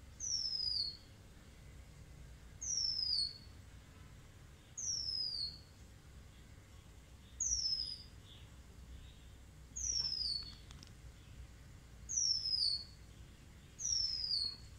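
A bird calling: one high whistled note that slides down in pitch, repeated seven times at an even pace of about one every two seconds.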